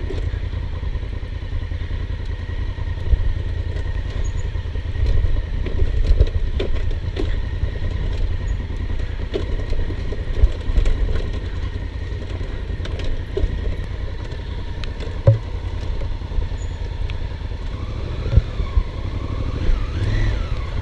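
Honda Africa Twin's parallel-twin engine running at low revs on a rough dirt trail, with scattered knocks and clatter as the bike goes over roots and rocks. A few rises in revs come near the end.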